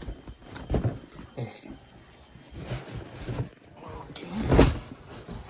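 Cardboard box and packing rustling and knocking as a robot vacuum is pulled out of it by hand. There are a few short scrapes and a louder knock about four and a half seconds in.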